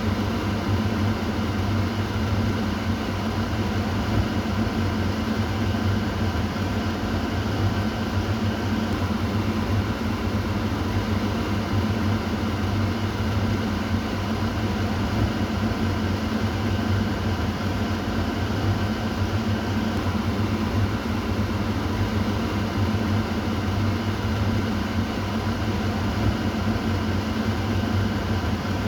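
Kitchen exhaust fan running steadily: an even low hum with a whooshing air noise, unchanging throughout.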